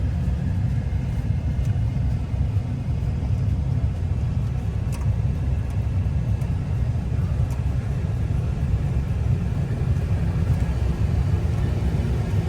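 Truck house's engine running with a steady low rumble as the truck pulls slowly into place on a river ferry.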